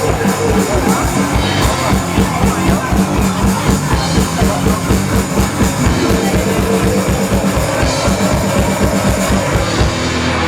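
Live rock band playing loud, with distorted guitar, bass and fast, dense drumming; near the end the drums stop and a low chord rings on.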